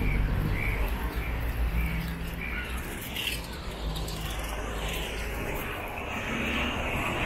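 A small bird chirping over and over, about two short chirps a second, over the low rumble of street traffic. The chirps stop about halfway through, and a steady rushing hiss of traffic builds toward the end.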